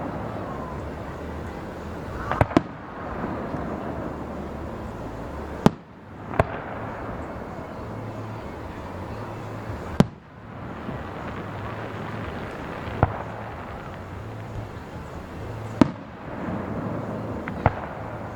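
Fireworks display: aerial shells bursting in sharp, single bangs a second to a few seconds apart, about eight in all, over a steady background hiss.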